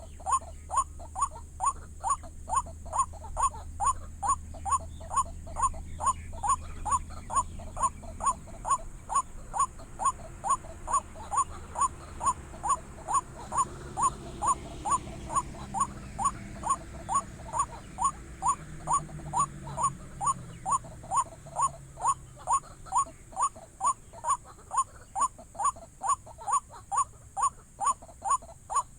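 White-breasted waterhen (wak-wak, ruak-ruak) calling: a short 'wak' note repeated steadily, nearly two a second, without a break.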